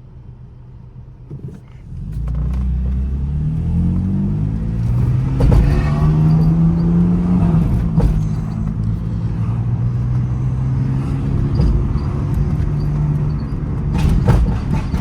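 Car engine pulling away about two seconds in, its pitch rising for a few seconds as the car accelerates, then running steadily at speed. A few sharp knocks near the end.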